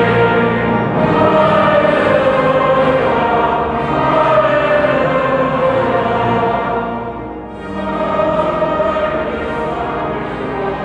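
Choir singing sacred music with instrumental accompaniment, the sound easing briefly about seven and a half seconds in.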